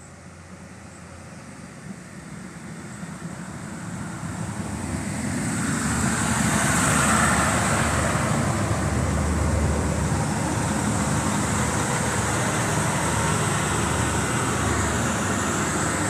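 NI Railways diesel multiple unit arriving at a station platform: its running noise grows steadily louder over the first six seconds as it approaches, then stays loud and steady as the carriages draw past and slow alongside the platform.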